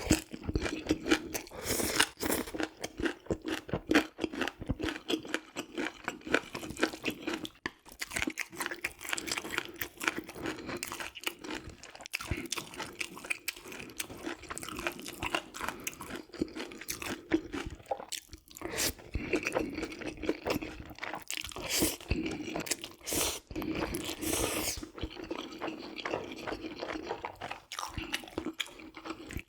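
Close-miked eating: crisp crunching bites and steady chewing of crunchy food.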